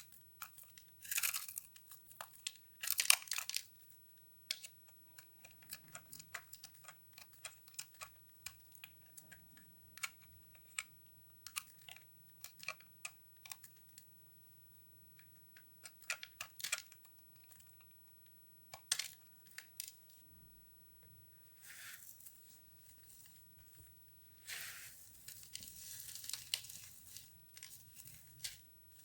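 Microwave-puffed soap being cut and crushed: dry, crisp crackling and crunching as the brittle foam breaks, with a few louder cracks in the first seconds, scattered small crackles, and a longer stretch of continuous crumbling near the end.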